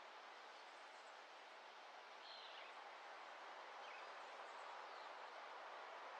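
Faint outdoor dawn ambience: a steady soft hiss with a few brief, high bird chirps, the clearest a little past two seconds in.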